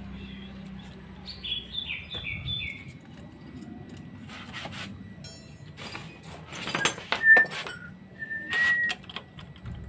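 A small bird chirping: a quick run of about five falling notes about a second and a half in, and two short whistled notes near the end. Between them come several brief clatters and scrapes of tools and engine parts being handled, the loudest about seven seconds in.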